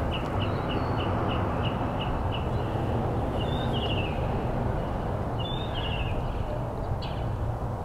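A bird calling: a quick run of short high chirps, about three a second, for the first couple of seconds, then two short warbling phrases a couple of seconds apart. Under it runs a steady rushing outdoor noise.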